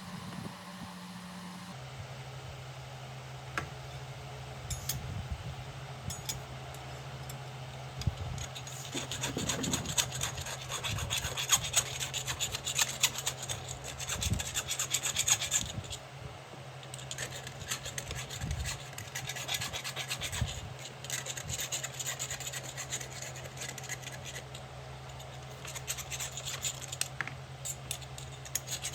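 A hand file rasping on an iron workpiece in bouts of quick strokes, over a steady low hum.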